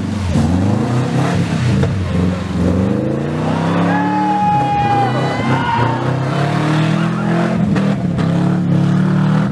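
Subaru Legacy Outback's EJ22 flat-four, with unequal-length headers and the axle-back exhaust removed, revving hard as the car drifts in the snow: the pitch climbs, dips about four seconds in, then climbs again. A short high, held tone sounds about four seconds in.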